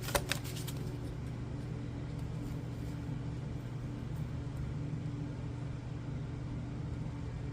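A few quick clicks of oracle cards being shuffled in the first half second, then a steady low hum with no change.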